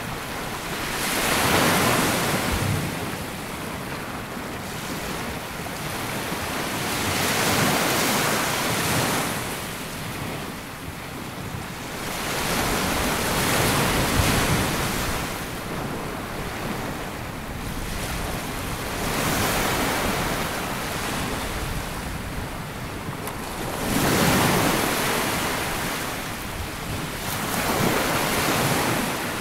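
Small waves breaking and washing up a sandy beach, one swell every four to six seconds, with a little wind on the microphone.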